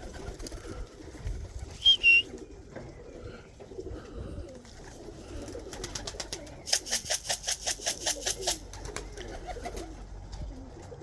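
Pigeons cooing at the loft. About two seconds in there is a short two-note whistle. From about seven seconds in, a rapid flutter of wingbeats lasts about two seconds.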